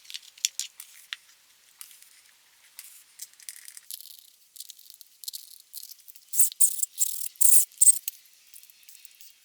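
Light metallic clicking and rattling from tools and small parts being handled on a dirt bike, busier and louder about six to eight seconds in.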